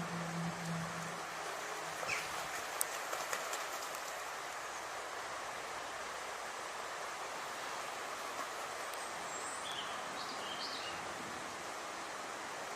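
Steady outdoor background noise, with a few sharp clicks two to three seconds in and a few short, high bird chirps about ten seconds in.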